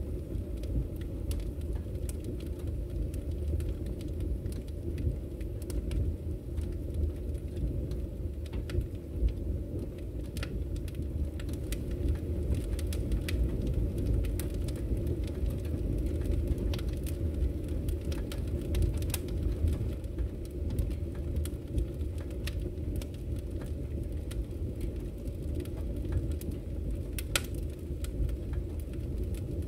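Wood fire in a fireplace crackling: frequent sharp snaps and pops over a steady low rumble, with one louder snap near the end.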